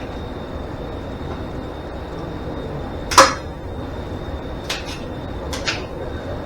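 A sharp metallic clank of a tool or part being set down or knocked, about three seconds in, followed by a few lighter clicks, over a steady background hum.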